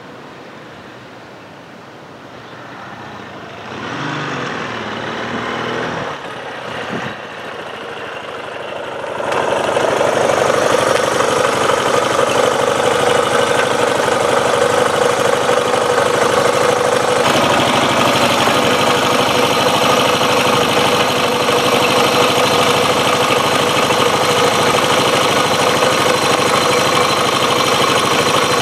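A steady, engine-like mechanical running sound that comes in loud about a third of the way through and holds even after that, with a faint noise before it.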